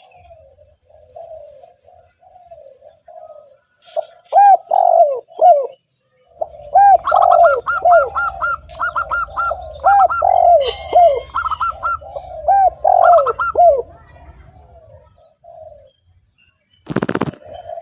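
Spotted dove (tekukur) cooing, a long run of rising-and-falling coo notes: soft at first, then loud and steady from about four seconds in. A short loud noisy burst comes near the end.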